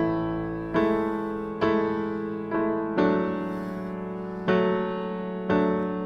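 Piano music: slow chords struck roughly once a second, each ringing out and fading before the next.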